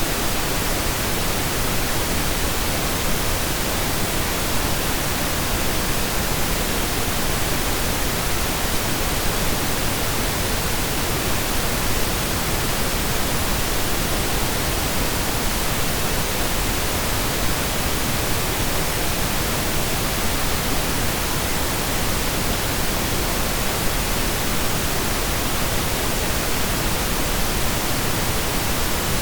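Steady synthesized pink noise: an even, unchanging hiss spread across the whole audible range, with equal energy per octave.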